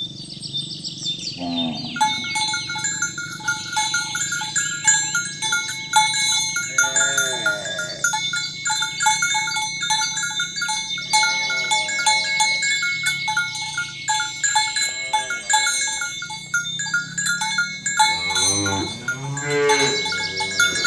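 Cattle mooing repeatedly, several separate calls with a run of them near the end, over the constant clanking of bells worn by the moving herd, which starts about two seconds in.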